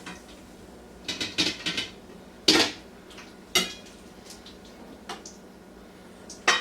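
Metal cookware and utensils clanking: a few light clinks, then two sharp metallic knocks about a second apart that ring briefly, then more clinks near the end.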